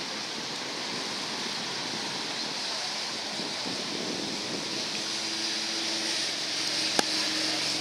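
Light rain falling, a steady hiss, with one sharp click about seven seconds in.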